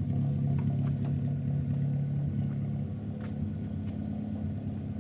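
Old car's petrol engine running steadily, a low hum whose note shifts slightly a little over two seconds in, with a few faint clicks. The engine is running again after its fuel-flooded spark plugs were cleaned.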